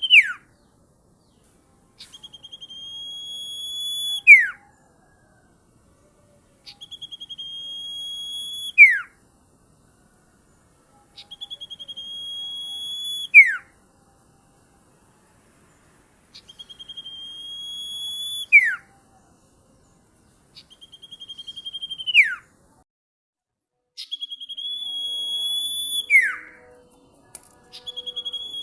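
A sirtu songbird singing the same shrill phrase over and over, about every four and a half seconds. Each phrase is a rapid high trill that swells louder for a couple of seconds, then ends in a sharp, loud downward-sweeping note.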